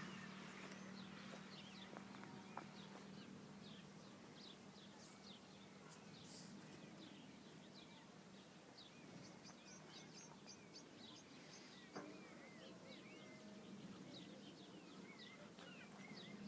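Faint chirping of small birds, many short calls throughout. A low steady hum runs under it for the first few seconds and returns near the end.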